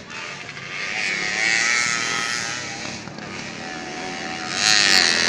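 Street motorcycles racing on a dirt track, their engines revving up and down as they pass. The sound swells about a second in and again near the end, where it is loudest.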